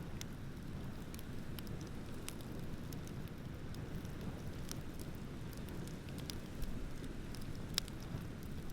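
Wood bonfire crackling, with scattered sharp pops and a louder one near the end, over a steady low rush of ocean waves.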